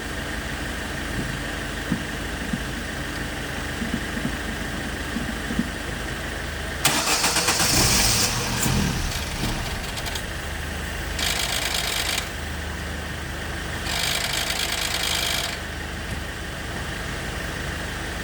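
The car engine of a 2006 Opel Zafira runs steadily with a few light clicks. About seven seconds in it gets much louder for two to three seconds, then surges twice more, briefly, about eleven and fourteen seconds in.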